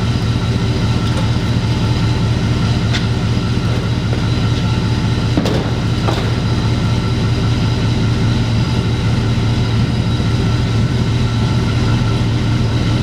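An engine or motor running steadily at a constant speed with a strong low hum, stopping right at the end.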